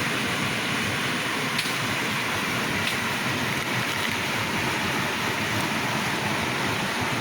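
A river flowing, a steady rush of water.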